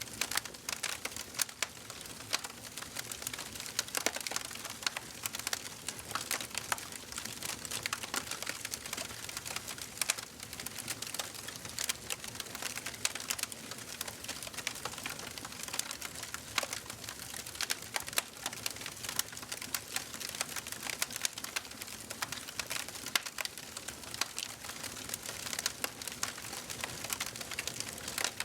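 Wood fire burning in a fireplace, crackling and popping steadily with many small snaps and a soft hiss.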